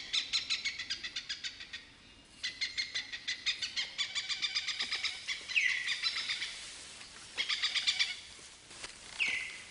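Birds calling: bursts of rapid chirping trills, with two short calls that sweep downward in pitch, one around the middle and one near the end.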